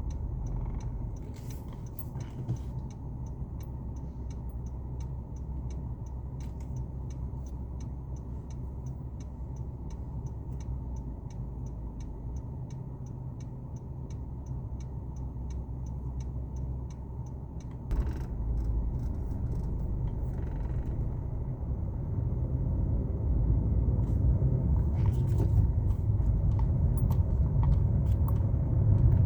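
A car driving along a highway, a steady low road-and-engine rumble. A light, even ticking about twice a second runs through the first half. The rumble gets louder about 18 seconds in and again near the end.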